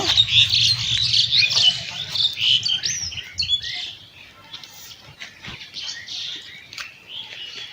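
Small birds chirping and twittering in quick, dense calls through the first few seconds, thinning out and growing fainter after that.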